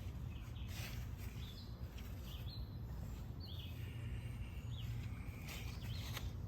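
Birds chirping a few times over a steady low rumble of outdoor background noise.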